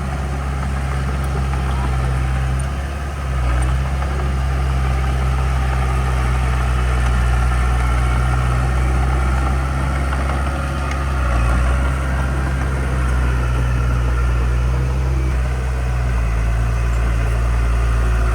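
Heavy construction machine's diesel engine running steadily, its engine speed shifting slightly a few times.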